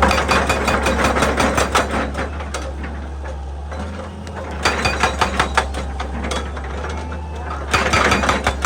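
Excavator engine droning steadily, with three bursts of rapid clattering and knocking as the bucket works into rocky ground and stones rattle: one at the start lasting a couple of seconds, one about five seconds in, and one near the end.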